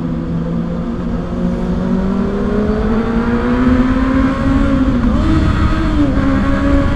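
Kawasaki ZX-6R's inline-four engine pulling under way, its pitch climbing slowly and steadily, then dipping and wavering briefly about five seconds in before holding.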